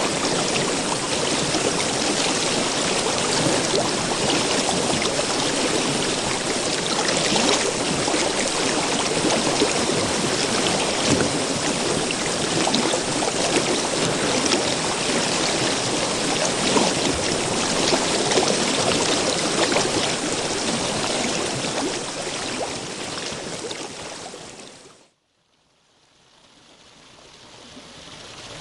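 River water flowing steadily. Near the end it fades out to a moment of silence, and water sound then fades back in slowly.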